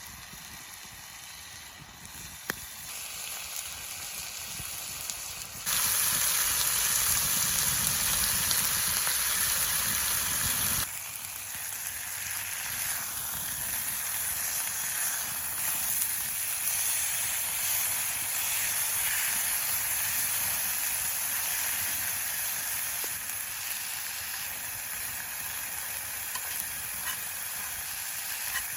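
Thick pound steak sizzling as it fries over a campfire, a steady hiss with a few faint crackles. The sizzle turns suddenly louder about six seconds in and drops back about five seconds later.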